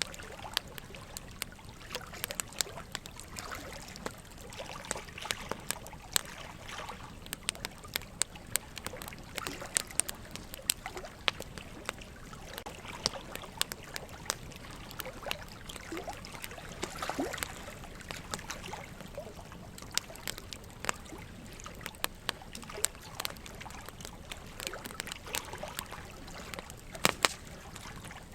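Wood fire crackling, with frequent sharp pops and snaps scattered irregularly, over a steady trickle of running water.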